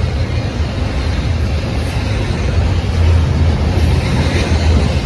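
BNSF freight train passing close by, a loud, steady low rumble.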